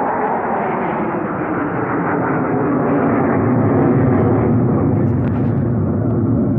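Jet aircraft flying past at an air show: a loud, steady roar of engine noise that swells to its peak about halfway through and drops in pitch as the aircraft passes.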